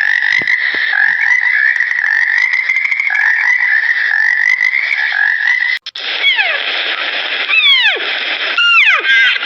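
An animal's steady high trilling call for about six seconds. It cuts off abruptly and is followed by a cat meowing several times, each meow falling in pitch.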